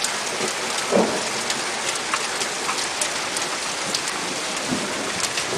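Heavy downpour of rain mixed with hail: a steady, loud hiss with many small sharp ticks of hailstones striking hard surfaces.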